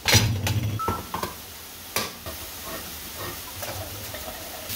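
Food sizzling in a hot skillet, with a loud clatter of a utensil or pan at the start and another sharp knock about two seconds in.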